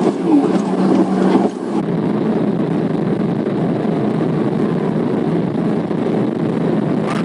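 Patrol car driving fast on the highway, heard from inside the cabin: an engine drone drops away about a second and a half in, leaving steady road and wind noise.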